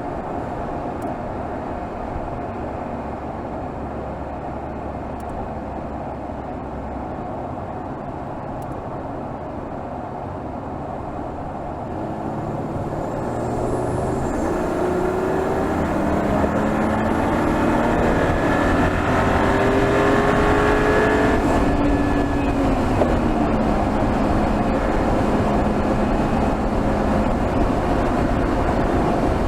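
Mercedes GLS 450's 3.0-litre turbocharged inline-six running under load on the move, heard from under the hood. It holds steady for about twelve seconds, then grows louder and rises in pitch as the car accelerates, with a faint high whine. About two-thirds of the way through the pitch falls and settles into a steady cruise.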